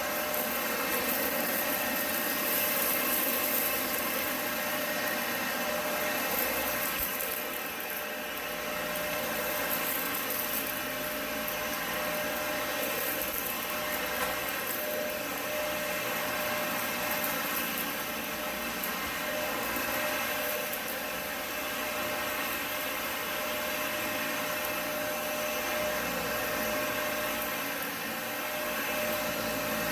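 Dyson upright vacuum cleaner running steadily, a strong rushing hiss with a thin high whine over it; the level dips slightly about eight seconds in and again near the end.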